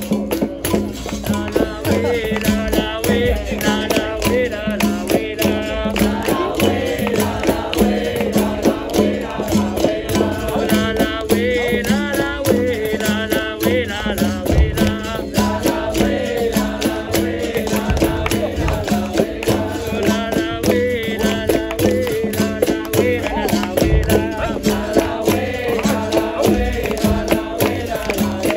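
Capoeira roda music: berimbaus and percussion with a rattle keeping a steady, fast rhythm, and voices singing over them.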